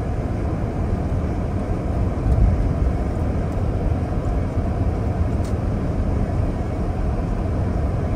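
Steady low road and engine rumble of a car driving along a highway, as heard from inside the moving car, swelling slightly about two and a half seconds in.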